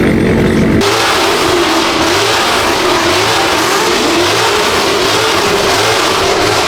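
A car engine running loud and revving, with a wavering pitch. It starts abruptly about a second in.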